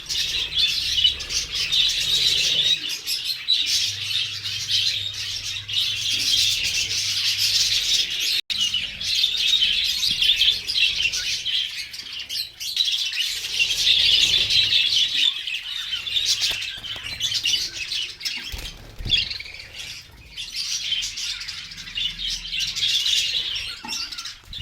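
A flock of budgerigars chattering and chirping without a break, many birds calling at once, with a momentary gap about eight seconds in.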